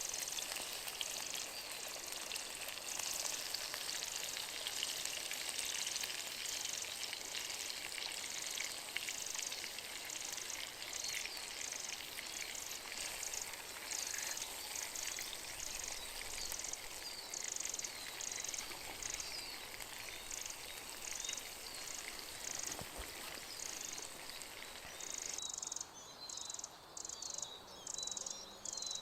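Beef burger patties and onions sizzling in oil in a pan, steady frying that cuts off suddenly about 25 seconds in. Insects chirp in a regular pulsing rhythm behind it and are left alone at the end.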